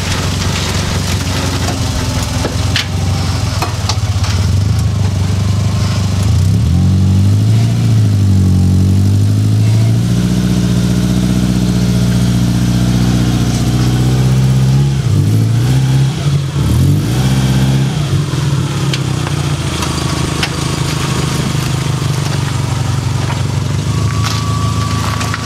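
Subaru Impreza's 2.0-litre EJ20 flat-four engine running, revved up and held at higher revs for several seconds, then dropping back with a couple of quick blips before running steadily again.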